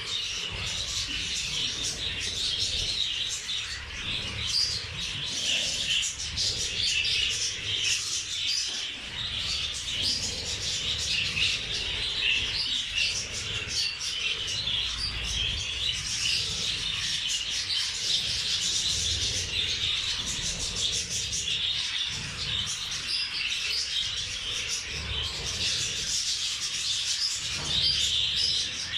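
A flock of budgerigars chattering and chirping continuously, a dense high twittering with a low rumble underneath.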